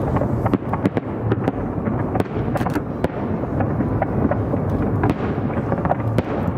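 Fireworks display going off continuously: a dense rumble of bursts with many sharp cracks and bangs in quick succession.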